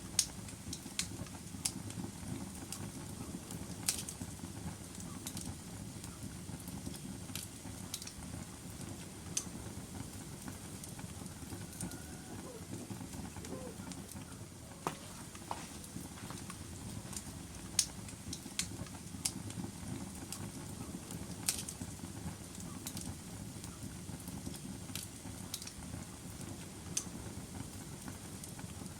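Logs burning in a fireplace: a steady low rumble of flame with sharp crackles and pops at irregular intervals, a few seconds apart.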